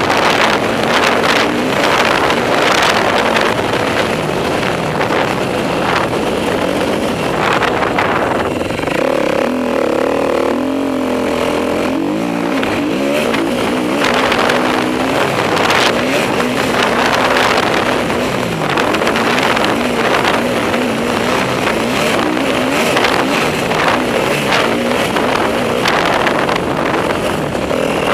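Enduro motorcycle engine being ridden hard on a motocross track, its revs rising and falling as the rider accelerates, shifts and backs off. About ten seconds in, the engine holds a steadier high note for a couple of seconds.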